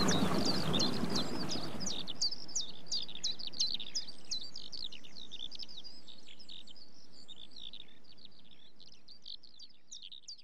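Birdsong ambience: many small birds chirping and twittering in quick overlapping calls. A rushing noise sits under them for the first couple of seconds, then drops away, and the birdsong fades out gradually toward the end.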